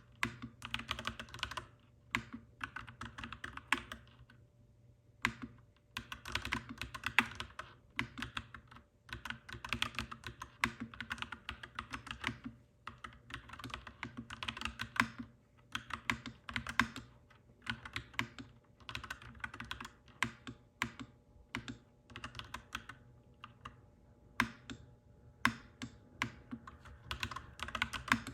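Clacky mechanical keyboard being typed on in fast runs of keystrokes, broken by short pauses of a second or so, over a steady low hum.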